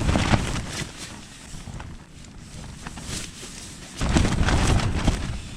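Strong wind gusting and buffeting the microphone, easing off for a few seconds and then surging again about four seconds in.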